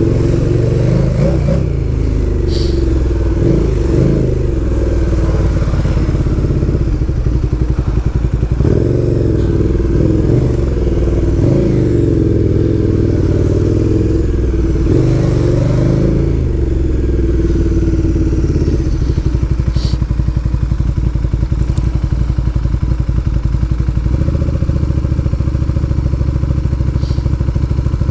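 Motorcycle engine on the move, revving up and easing off at low speed. After about twenty seconds it settles to a steady, evenly pulsing idle as the bike stops. A few faint clicks are heard along the way.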